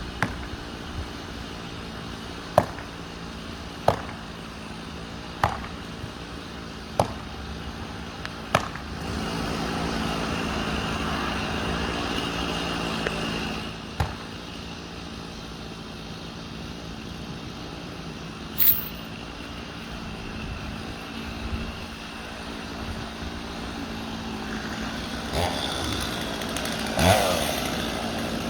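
Chainsaw idling steadily, with a run of sharp knocks about every second and a half through the first nine seconds and a louder stretch around ten to thirteen seconds in.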